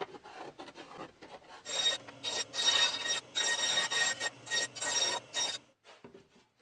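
Repeated rasping, scraping strokes on wood, faint at first and louder from about a second and a half in, stopping shortly before the end.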